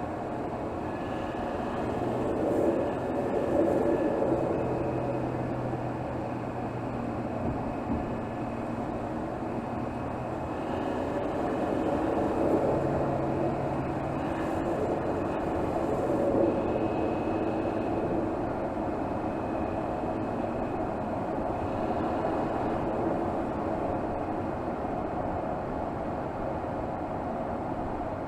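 Mercedes GLS 450's 3.0-litre turbocharged inline-six engine, heard from under the hood, running at low revs in city driving and swelling a little a few times as the throttle is applied. A thin high whine comes and goes over it.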